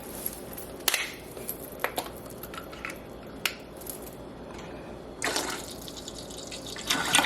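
Tomato juice poured from a bottle into a pot of broth, a liquid pour starting about five seconds in and running on. Before it, a few light clicks and knocks.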